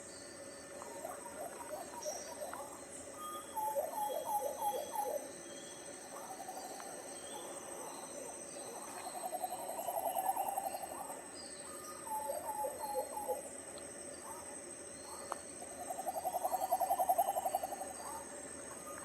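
Tropical forest birds calling: low-pitched calls in short runs of quick falling notes, alternating with two longer rapid trills, over a steady high-pitched tone and faint high chirps.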